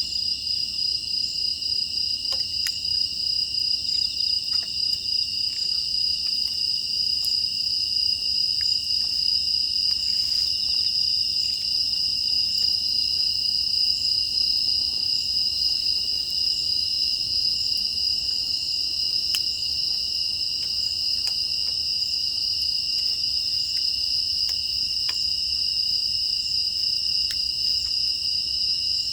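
Steady night chorus of crickets and other grass insects, a continuous high-pitched trilling, with scattered faint clicks.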